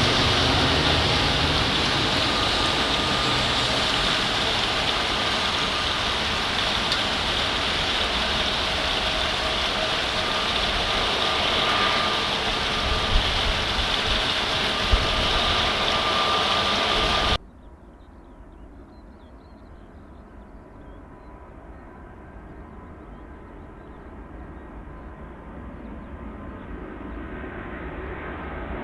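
Jet engine noise from a departing Boeing 737 MAX 8's CFM LEAP-1B turbofans: a loud, steady rush with faint whining tones. About two-thirds of the way through it cuts off abruptly to a much quieter, duller jet sound from a departing Airbus A330-300, which slowly grows louder.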